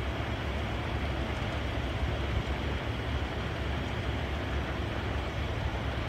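Steady low rumble of a passenger train coach running along the track, heard from its open doorway.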